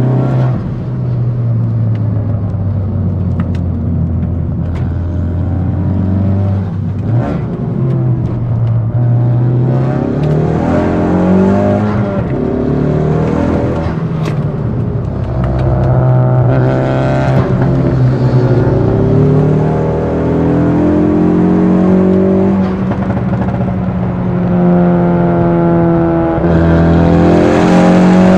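Tuned 400 bhp Ford Focus ST's turbocharged four-cylinder engine and exhaust under hard acceleration. The revs climb and then drop at each gear change, again and again, with a few short sharp cracks along the way.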